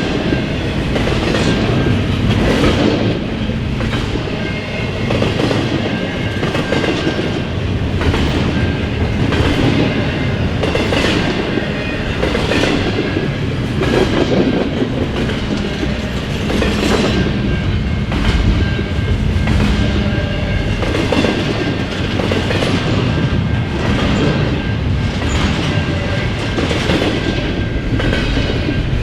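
Freight train cars rolling past, their wheels clacking over rail joints in a repeating rhythm above a steady rumble.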